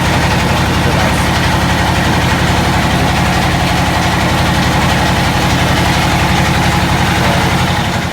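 Engine running steadily with a fast, even low throb, loud and close.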